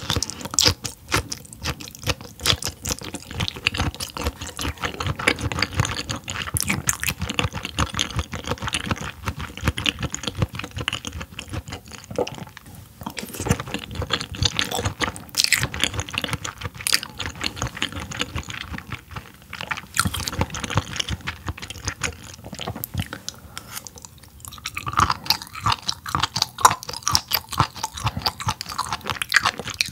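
A person chewing a mouthful of raw yellowtail sashimi close to the microphone, a steady run of small mouth clicks and smacks. It gets busier near the end.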